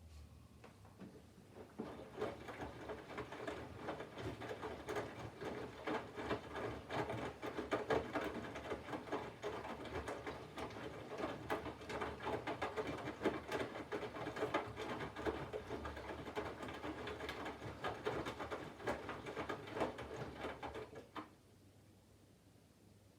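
Candy GVF4 front-loading washing machine turning its drum, the load tumbling with a dense crackling patter for about 19 seconds before the drum stops suddenly, during the water-heating phase of the wash.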